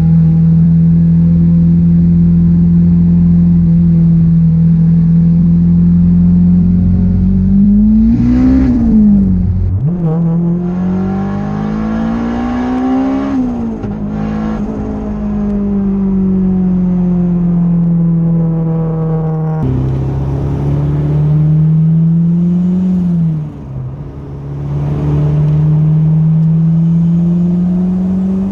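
Turbocharged Honda K20 four-cylinder engine in a Toyota MR2, running. It holds a steady note for about eight seconds, then revs up and drops back sharply a few times as it pulls through the gears. In the middle the note slowly sinks before it climbs again.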